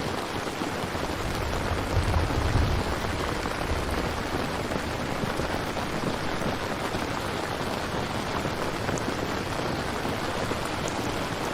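Steady rain falling, an even hiss of many drops, with a brief low rumble about two seconds in.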